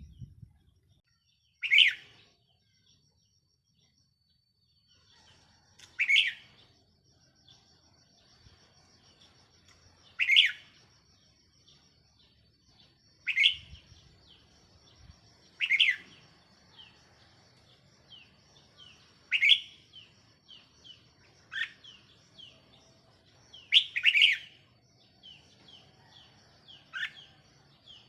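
Caged red-whiskered bulbul singing as a decoy bird: short, loud song phrases repeated every three to four seconds, with softer chirps in between from about six seconds in.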